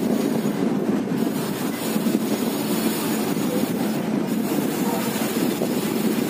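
Passenger train moving along a station platform, heard from a coach doorway: wheels running on the rails with a steady noise and no speech.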